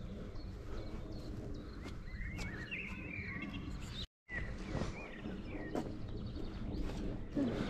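Small birds chirping in short bursts over a steady low outdoor rumble. The sound drops out completely for a moment a little after four seconds in.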